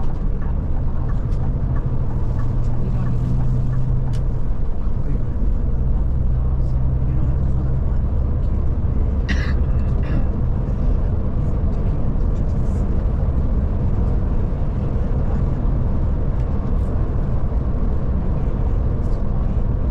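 A Scania Touring coach driving along, its diesel engine drone and road noise heard from inside the cabin, with a short high squeak about halfway through.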